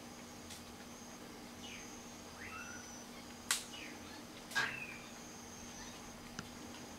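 Quiet outdoor ambience with scattered short falling bird chirps and thin high whistled notes. Two sharp chip-like calls, about a second apart midway through, stand out as the loudest sounds.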